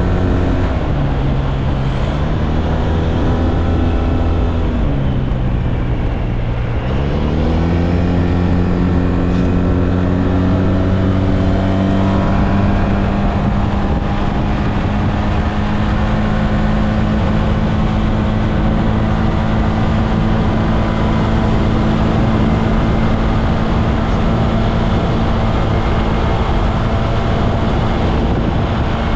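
SYM Maxsym TL 508 maxi-scooter's parallel-twin engine under way. Its pitch drops as it slows about a second in, and falls again to a low point about six seconds in. It then climbs smoothly over several seconds as the scooter accelerates, and holds steady at cruising speed.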